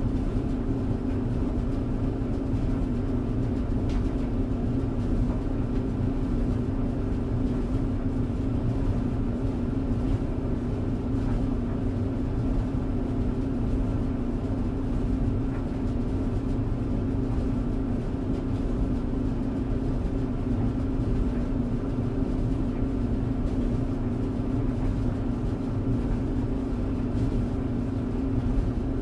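Clothes tumble dryer running: a steady hum from the motor and turning drum with a low rumble, and a few faint ticks now and then.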